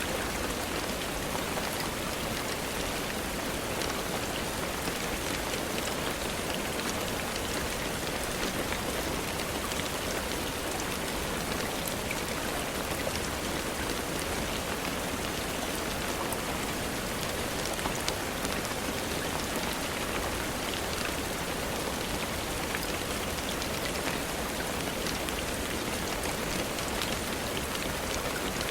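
Steady rain falling, a dense, even patter of many drops on a surface.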